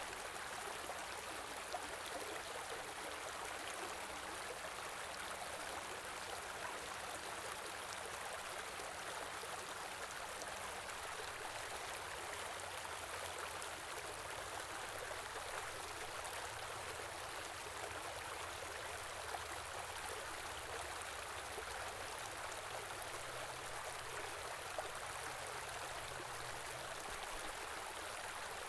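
Small river or stream flowing steadily over rocks, a continuous rushing and babbling of water.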